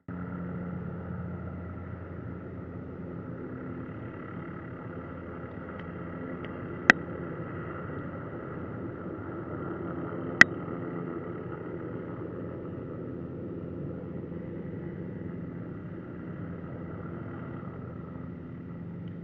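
Hughes 500D helicopter running steadily, its turbine and rotor giving a constant hum with a thin whine above it. Two sharp clicks stand out, about three and a half seconds apart.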